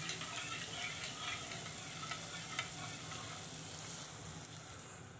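Onion-tomato masala frying and sizzling in a steel pot, with light clicks and scrapes of utensils. The sizzle dies down near the end as the cool curd and gram-flour mixture is poured in.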